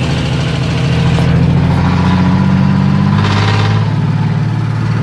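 Chevrolet 400 engine running loud and steady through an open, unmuffled exhaust. Its low note eases slightly lower in pitch about three seconds in.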